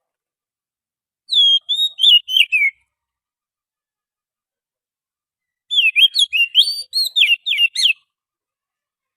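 Oriental magpie-robin song: two phrases of varied, sliding whistled notes, a short one about a second in and a longer, busier one about six seconds in, with silent gaps between them.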